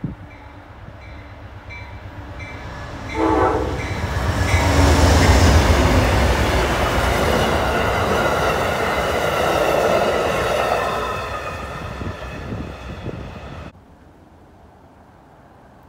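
Amtrak passenger train passing through at speed: faint regular dinging, then a short horn blast about three seconds in, followed by the loud rush and rumble of the locomotive and cars going by, easing off after about ten seconds. The sound cuts off suddenly about two seconds before the end, leaving a quiet hiss.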